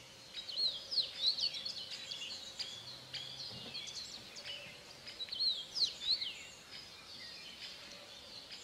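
Small birds chirping and calling, many short, quick chirps and sweeping calls overlapping, busiest about a second in and again around six seconds in, over a faint steady hum.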